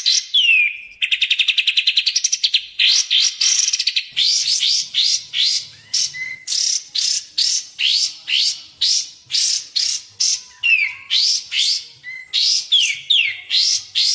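Recorded bulbul song played for bird training, from kapas tembak and cucak jenggot. Fast rattling trills open it, then a long run of quick rising upswept whistles, about two a second, with a few falling notes mixed in.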